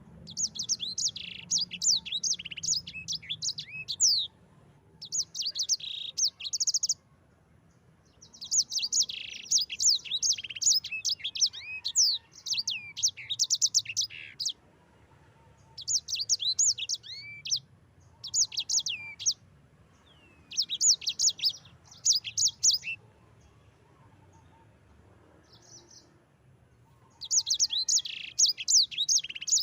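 A sanger songbird singing its rolling song in bouts of fast, high, sweeping chirps, each run lasting one to four seconds and separated by short pauses, with a longer pause before the last bout near the end.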